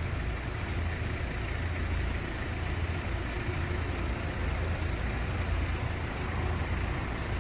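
City traffic ambience: a steady low engine rumble under an even hiss, with no single event standing out.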